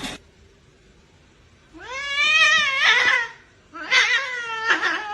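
Domestic cat meowing twice, starting about two seconds in: two long drawn-out meows, the first rising then falling in pitch, the second sliding down at its end.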